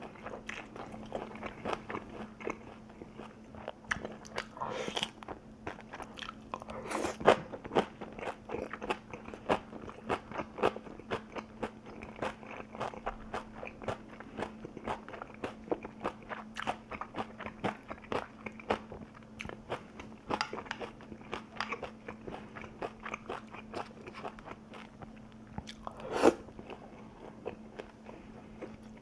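A person biting and chewing crunchy food, with many small crunches throughout and two louder bites, about seven seconds in and near the end. A faint steady hum sits underneath.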